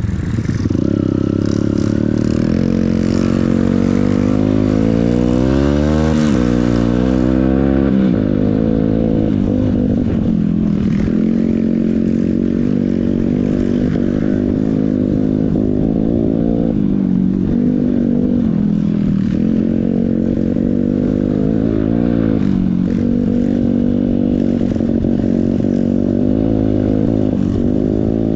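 Yamaha XTZ125 trail motorcycle's engine running under way through the whole stretch, its pitch rising and falling with the throttle, with several quick rises and drops about five to seven seconds in.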